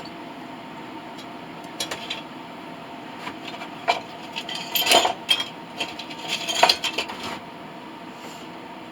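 Metal clinking and scraping, a run of sharp clinks and rattles about two to seven seconds in, as pieces of metal or tools are handled during a brass melt; underneath, a steady hum.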